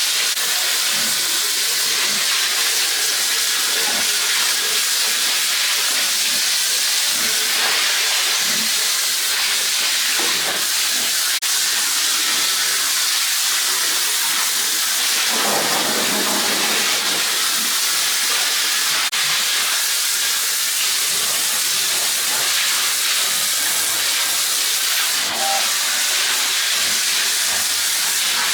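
Steady hissing noise, strongest in the high range, with a few faint clicks.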